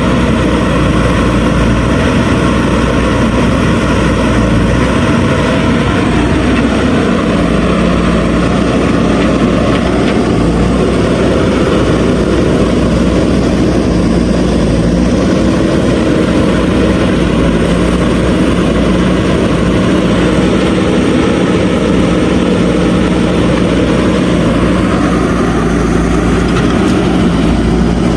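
JCB 3DX backhoe loader's diesel engine running steadily under work load. The engine note steps up about seven seconds in and shifts again near the end.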